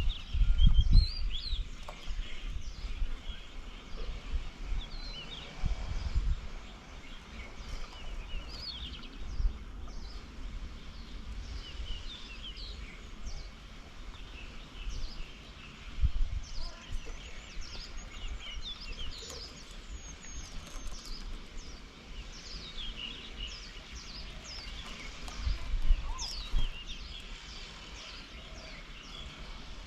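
Many small birds chirping and calling, short notes scattered throughout, with a few low rumbling surges in the background.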